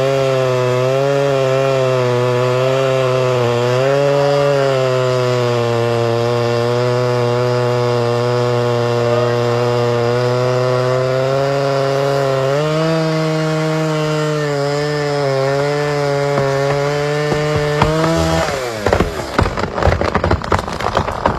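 Chainsaw running at full throttle and cutting into a large trunk, its engine note wavering with the load and rising a little about two-thirds of the way through. Near the end the saw drops away and a burst of loud cracking and crashing follows as wood breaks, the sound of the felled tree coming down.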